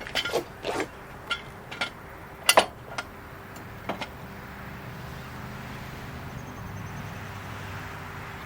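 A run of sharp metal clicks and clanks from the floor jack and jack stands being handled, the loudest about two and a half seconds in. A low steady rumble then comes up and holds.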